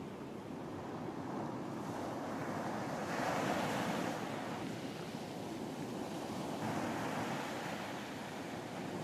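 Ocean surf washing onto a beach in a continuous rush, with a wave breaking louder about three seconds in and another about seven seconds in.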